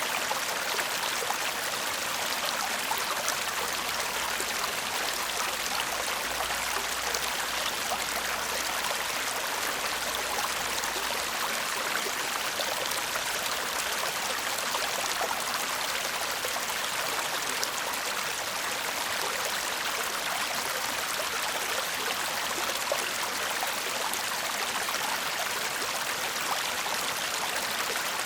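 Shallow stream babbling steadily over stones, a constant rush of water with fine trickling splashes.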